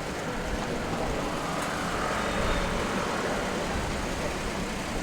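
City street traffic: road vehicles running past, with the sound swelling slightly around the middle as one goes by.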